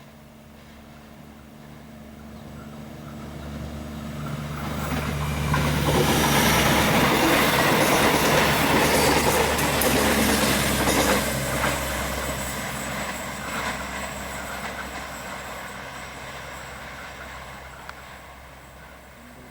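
A train with a diesel locomotive passing close by. A low engine hum grows over the first few seconds, then wheels clatter over the rail joints, loudest in the middle, and the sound fades away toward the end.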